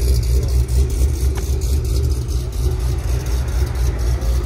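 Car engine running steadily with a deep, loud rumble that pulses unevenly, without revving up or down.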